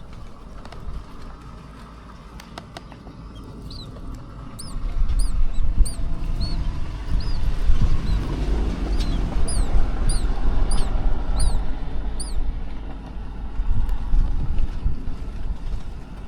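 Wind gusting on the microphone, with a low rumble that builds about four seconds in. Over it a small bird gives short, high chirps, about two a second, for several seconds through the middle.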